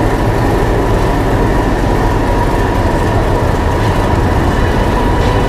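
Heritage railway train running, a steady rumble of the carriages on the track with a faint steady whine over it.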